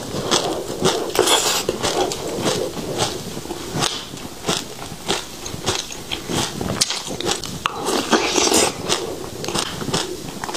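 Close-up chewing of a mouthful of seeds: dense, fast crackling crunches that swell louder about a second in and again near eight and a half seconds in.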